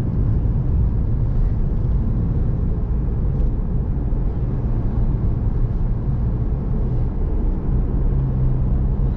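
Steady low road and engine rumble inside the cabin of a truck cruising along the highway.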